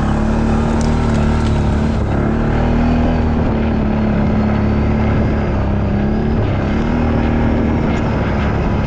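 ATV engine running under steady throttle, its pitch rising and dipping slightly a few times as it works through mud.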